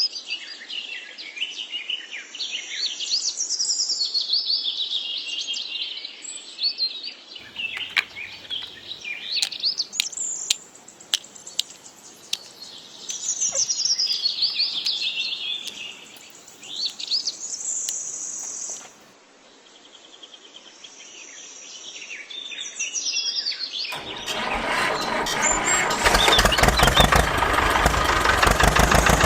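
Birds chirping and singing, many short calls overlapping. About 24 s in, an engine starts and runs loudly with a fast, even pulse.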